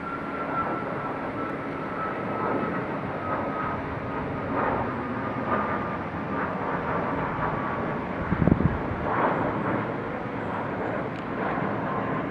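Jet airliner's engines running on departure: a broad rumble with a faint whine that slowly falls in pitch. A short, loud low thump about eight seconds in.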